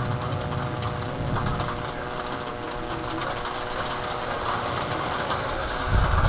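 Steady hiss and patter of heavy rain in a thunderstorm, over a steady hum with several pitched tones. A low rumble rises in the first second or so and again near the end.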